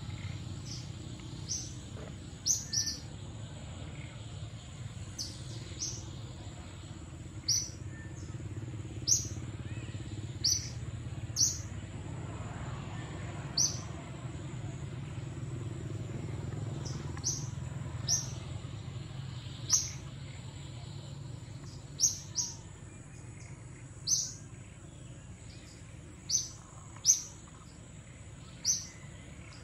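A bird calling with short, sharp chirps every second or two, each a quick downward sweep, over a steady thin high-pitched tone and a low background rumble.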